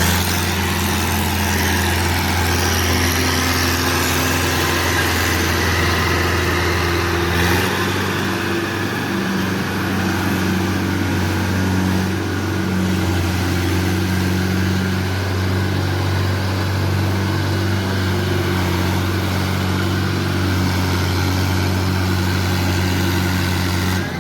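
Tractor diesel engine running steadily, its pitch shifting a little partway through.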